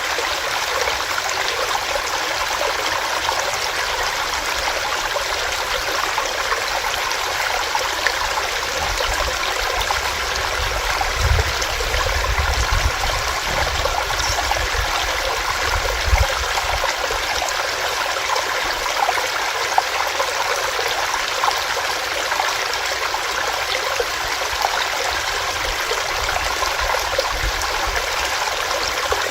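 Small rocky stream: water running and splashing over rocks, a steady rush with many small bubbling crackles, and a low rumble that swells for a few seconds partway through.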